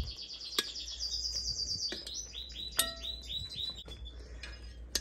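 A songbird singing a fast high trill, then a run of about six repeated downslurred notes. Metal tongs clink sharply against the enamelled cast-iron pot several times while the chicken is turned.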